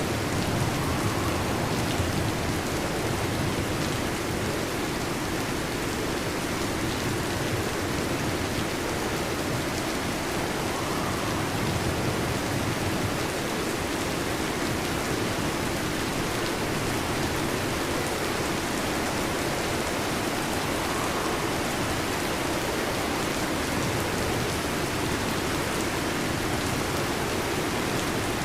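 Steady heavy rain: a dense, even hiss of pouring rain that holds at one level throughout, with no thunderclap.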